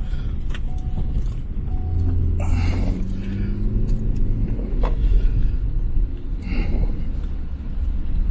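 Jet aircraft engine rumbling steadily and deep, with a brief higher hum joining in a few seconds in and a few sharp clicks.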